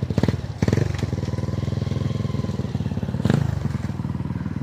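Trail motorcycle engine running with a fast, even firing beat, with three brief loud bursts: two within the first second and one past three seconds.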